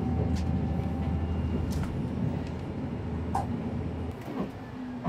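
Diesel railcar running, heard from inside the passenger cabin: a steady low drone with a few short clicks of the wheels over the rails. The drone drops away about four seconds in.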